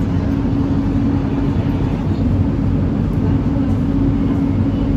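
Steady low drone inside a Kelana Jaya Line LRT train car, with a held low tone and no sharp events.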